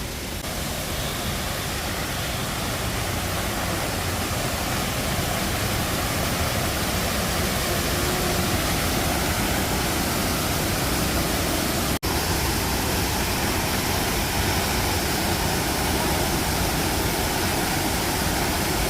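Steady rush of a waterfall, a dense roar of falling water, with a split-second break about twelve seconds in.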